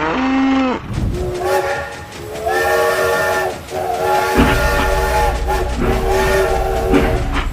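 Train horn sounding a series of blasts, each a chord of several tones held for up to about a second. A low rumble joins in about halfway through.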